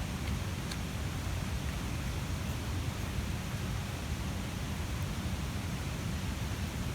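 Large wood bonfire burning with a steady low roar and hiss, with a couple of faint crackles.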